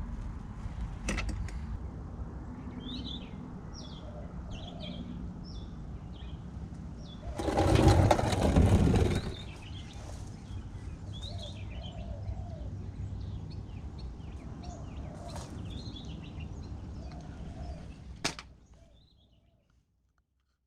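Small birds chirping over a steady low background rumble. A louder rush of noise lasts about two seconds near the middle, a couple of sharp clicks come near the start and near the end, and the sound fades out shortly before the end.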